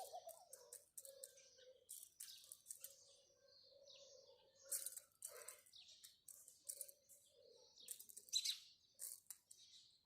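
House sparrows chirping: quiet, short, sharp chirps coming in irregular clusters, with the loudest runs about five and eight seconds in.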